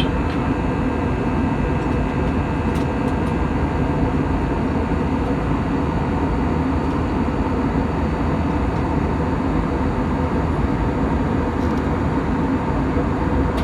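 Steady cabin noise inside an Airbus A320 in flight: an even rumble of airflow and engines with a faint constant hum, heard from a seat near the front.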